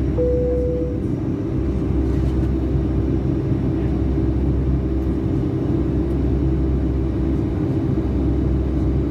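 Steady cabin roar of a Boeing 757-200 in flight, with a constant low hum. In the first second a short single-pitch cabin chime tone sounds, the second of a pair.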